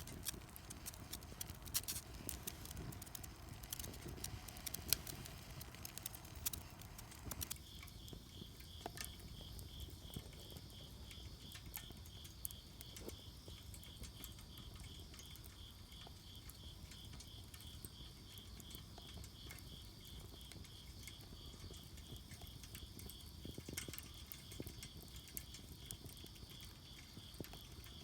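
Wood fire burning in a Solo Stove Campfire stove, with irregular sharp crackles and pops, busiest in the first few seconds. About a quarter of the way in a steady, fast-pulsing high trill of an insect starts and carries on under the crackling.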